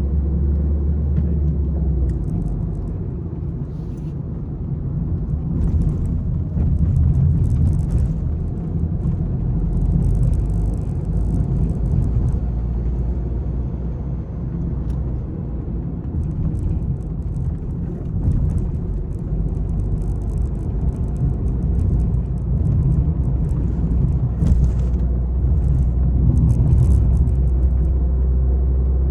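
Peugeot 301 being driven hard: engine running under load over a heavy, steady road rumble, with scattered clicks and rattles.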